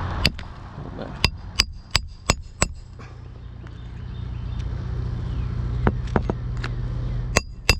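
Hammer driving roofing nails into asphalt shingles: a quick run of six sharp, ringing strikes, about three a second. After a pause with a low steady rumble underneath, four more strikes come near the end.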